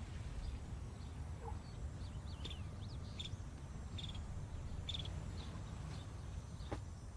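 Quiet garden ambience: a steady low background rumble with a few faint, short bird chirps scattered through the middle.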